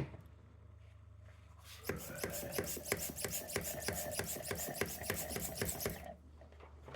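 Engine oil being sucked out of a spark plug tube with a suction tool: a rapid rasping slurp of oil and air, starting about two seconds in and lasting about four seconds. The oil has pooled in the tube from leaking spark plug tube seals.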